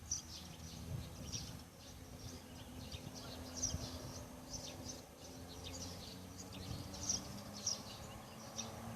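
Small birds chirping, short high chirps repeating every half second or so, over a faint steady low hum.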